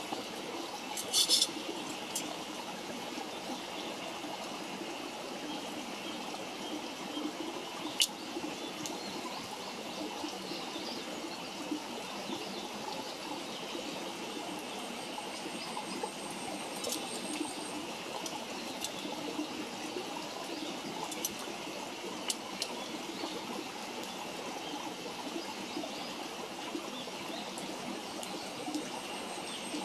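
Wood campfire burning with a steady rushing hiss and scattered sharp crackles and pops. The loudest are a quick cluster about a second in and a single crack about eight seconds in.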